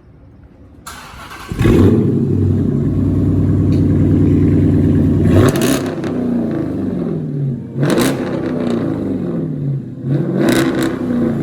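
Car engine cranked over by the starter, catching about a second and a half in and settling into a steady fast idle through its freshly installed muffler-shop exhaust. It is then revved three times, each rev sliding back down to idle.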